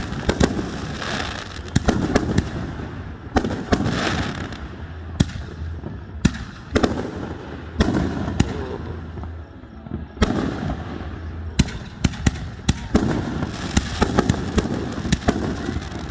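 Aerial fireworks show: many sharp cracks and booming shell bursts in quick clusters, some overlapping, with crackling between them.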